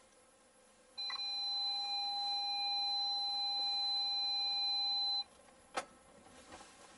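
A steady electronic beep tone made of a low and a high pitch held together. It starts about a second in, lasts about four seconds and cuts off suddenly. A single sharp click follows shortly after.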